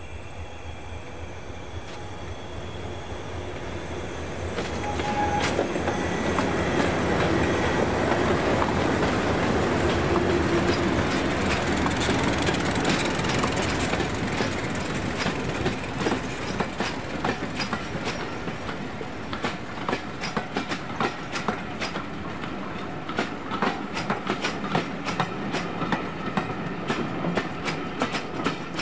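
A diesel-hauled passenger train passing: its running noise builds and is loudest about a third of the way in, then the coaches' wheels clatter over rail joints in quick, uneven clicks that grow denser toward the end.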